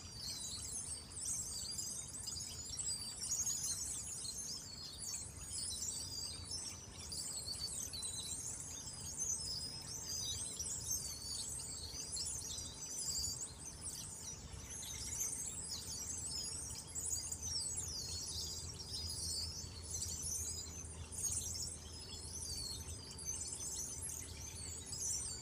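A flock of small birds twittering all at once, a dense, unbroken chorus of high overlapping chirps that sounds like a trickling stream.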